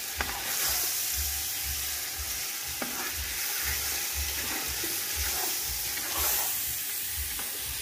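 Chicken sizzling in hot oil and masala in a pan while being stirred, with a steady hiss and a few light clicks of the spoon against the pan.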